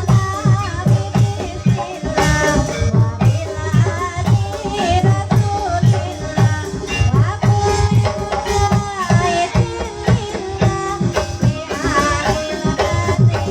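Javanese ebeg (kuda kepang) dance music: drums beating a fast steady rhythm, about four strokes a second, under pitched percussion and a wavering melody line.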